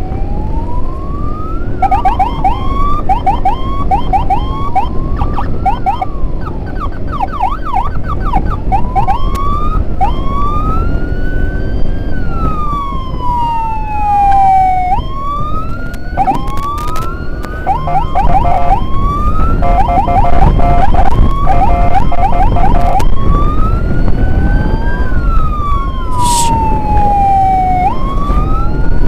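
Electronic emergency siren, switched back and forth between a slow rising-and-falling wail and fast, rapid yelping runs, over a steady low rumble of engine and road noise.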